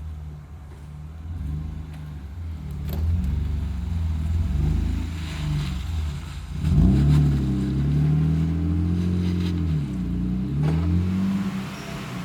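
BMW E30's swapped-in 2.8-litre engine running under load, then revving up sharply about six and a half seconds in, holding high revs, dropping briefly near ten seconds and picking up again.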